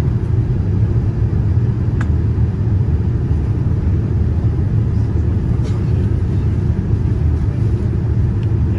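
Steady low rumble of a Boeing 787-9 airliner in motion, heard from inside the cabin, with a faint tick or two.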